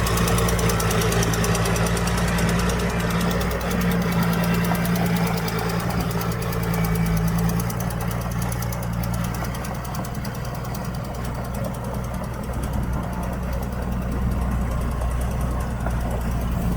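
Heavy diesel engine of earthmoving equipment running steadily with a knocking clatter; the clatter fades after the first few seconds.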